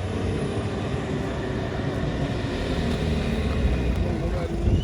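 Loaded truck's engine running as it passes, a steady low rumble that grows a little louder near the end.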